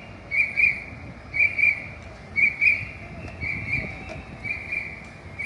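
A fire truck's electronic warning beeper sounding pairs of short high beeps, one pair about every second, with a low rumble underneath.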